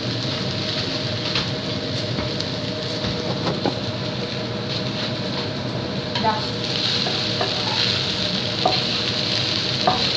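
Fried rice sizzling in a wok while it is stirred with a wooden spatula, a steady hiss. From about six seconds in, short scrapes and knocks of the spatula against the pan as the rice is pushed out onto a plate.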